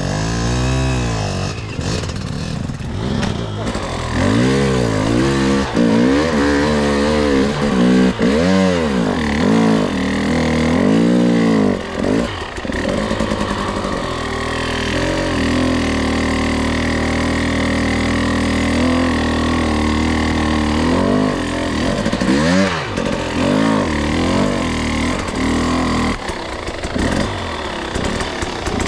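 Two-stroke enduro dirt bike engine revving up and down in repeated blips, settling to a steadier note about midway, then revving a few more times near the end.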